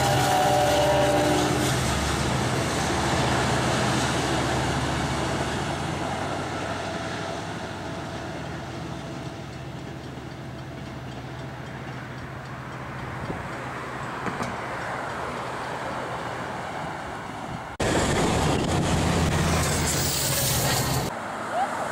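Amtrak passenger train passing on the rails: a train horn sounds and ends about a second and a half in, then the rolling rumble of the cars slowly fades as the train moves away. Near the end a Pacific Surfliner car passes close by and is louder.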